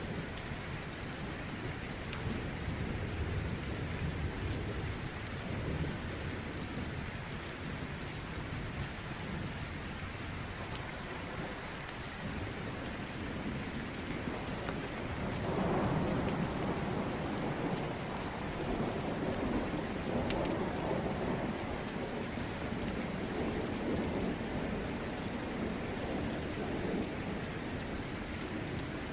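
Steady rain falling, with low rolling thunder: a faint rumble early on and a louder swell about halfway through that rumbles on for several seconds.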